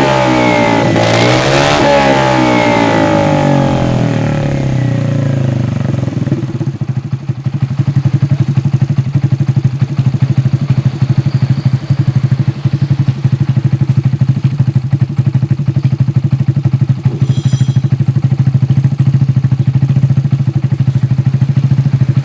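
Vespa Sprint 150 i-get scooter's single-cylinder four-stroke engine running through a Best3 full-system racing exhaust. It is blipped up and down a couple of times, then drops back to a steady idle with a fast, even exhaust pulse.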